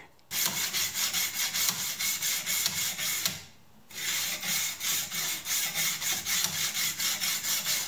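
A diamond sharpening stone in a guided knife-sharpening jig rasping along a knife blade in quick back-and-forth strokes, grinding a convex secondary bevel into a flat one. There is one short pause about three seconds in.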